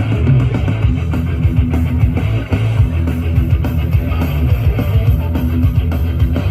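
Loud rock-style music with guitar and heavy, booming bass, played through a miniature sound-system speaker rig.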